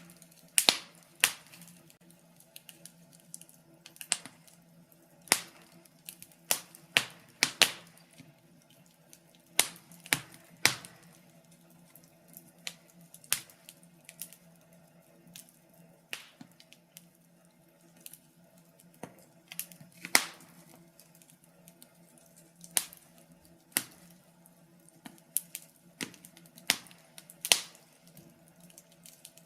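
Wood fire crackling in a fireplace: irregular sharp pops and snaps from the burning logs, a few every couple of seconds, over a faint steady low hum.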